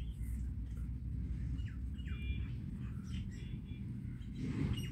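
A few short bird chirps over a steady low background noise.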